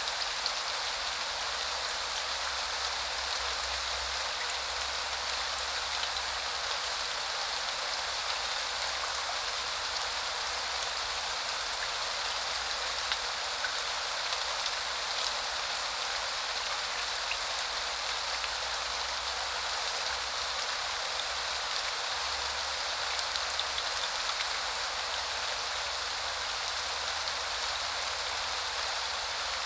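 Steady rain falling, an even, unbroken hiss with scattered faint ticks of single drops.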